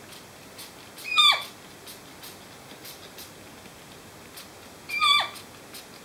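Currawong in hand giving two harsh squawks, each sweeping sharply down in pitch, one about a second in and one near the end: a wild bird protesting at being held.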